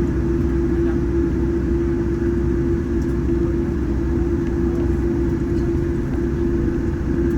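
Cabin noise of a Boeing 787-10 on the ground after landing: a steady low rumble with one steady hum held at the same pitch throughout.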